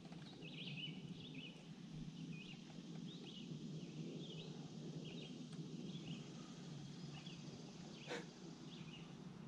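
Faint birds chirping over and over over a steady low hum, with a single sharp click about eight seconds in.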